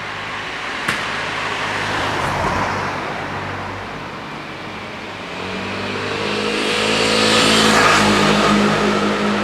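Two cars passing close by, one after the other: the first a swell of tyre and engine noise, the second louder, its engine note rising as it draws near and loudest near the end.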